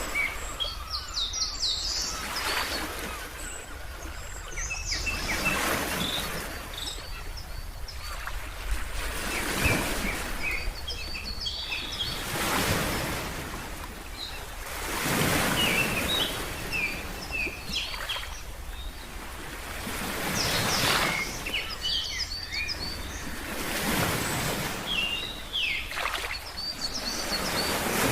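Ocean waves washing in, swelling and falling every few seconds, with many birds chirping in short bursts over them.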